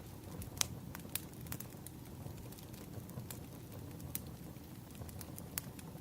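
Burning firewood crackling: irregular sharp pops and snaps, a few louder ones in the first second or so, over a steady low rumble of the fire.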